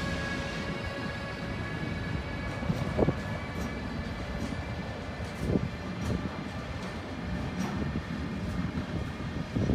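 A train running past on the track, a steady rolling noise of wheels on rails with a few knocks, and a thin whine that fades away in the first few seconds.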